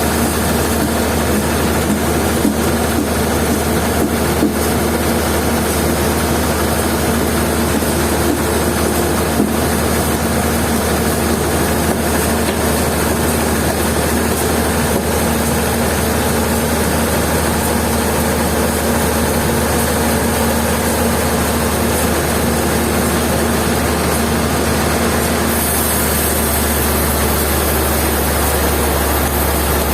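Sawmill machinery running steadily, a loud constant drone with a strong low hum that does not change.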